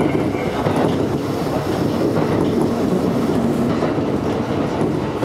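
Kintetsu electric train running along the line, heard from inside the front of the car: a steady wheel-on-rail running noise.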